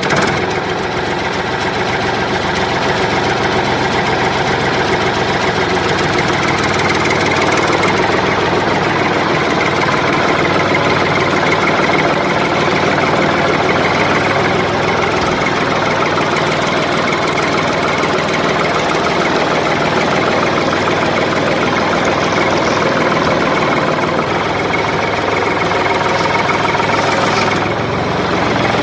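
An engine running steadily without a break, with a slight dip in level near the end.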